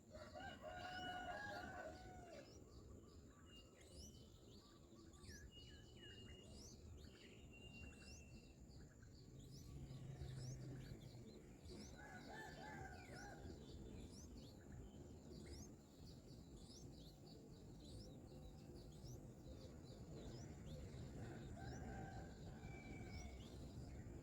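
A rooster crowing three times, faint, about a second in, midway and near the end, over a steady stream of quick, thin, high bird chirps and a low rumble.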